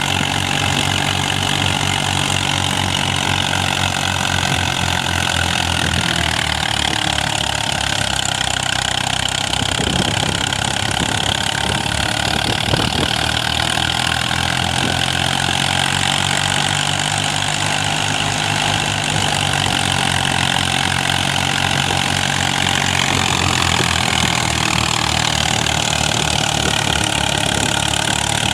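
Fiat 55 hp tractor's diesel engine idling steadily, with an even low pulsing beat.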